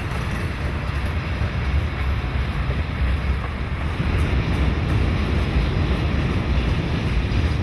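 A train rolling past, a steady low rumble with wind buffeting the microphone.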